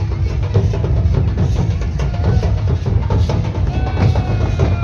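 Loud music with dense, continuous drumming, the beats coming in quick succession and heaviest in the bass.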